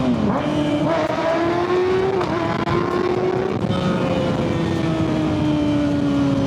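Kawasaki ZX6R 636's inline-four through a Yoshimura full exhaust, heard from the rider's seat under a steady rush of wind. The engine pitch dips and climbs over the first second or so with a gear change, holds steady, then from about halfway falls slowly as the bike rolls off.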